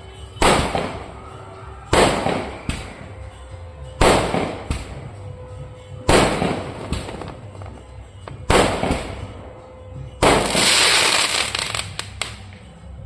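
Firecrackers going off: six loud bangs about two seconds apart, each trailing off, with smaller pops in between and a longer hissing crackle after the last bang.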